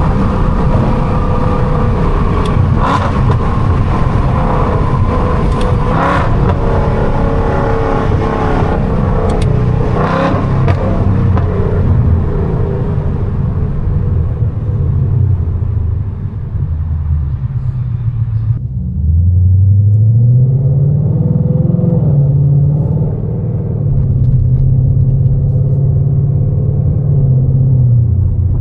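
Straight-piped, catless Mustang GT V8 exhaust under hard driving, with a few sharp cracks in the first half. About two-thirds of the way in the hiss drops away suddenly, then the revs climb over a couple of seconds and hold steady, dipping briefly near the end.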